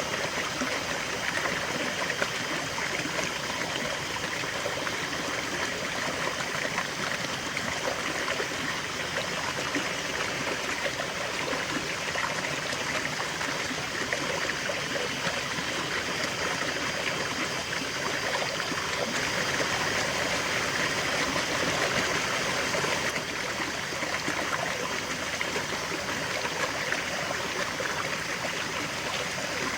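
River water flowing and babbling steadily over stones, a continuous rushing with fine splashing and trickling.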